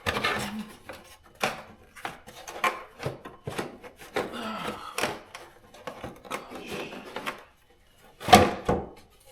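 Hard plastic engine cover on a BMW N52 being tugged and worked loose by hand, rubbing, scraping and knocking irregularly against the engine as it sticks. A louder clatter comes about eight seconds in.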